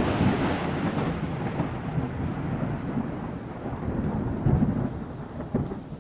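Thunder: a crash just before the start dies away into a long rolling rumble over a steady hiss of rain, with a couple of louder swells of rumble near the end.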